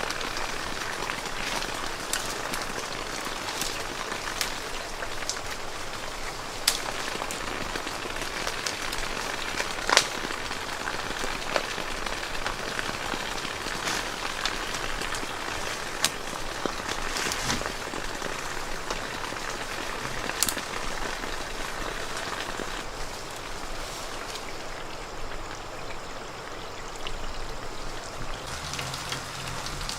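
Falling water pattering steadily on a surface, with scattered louder drops or ticks.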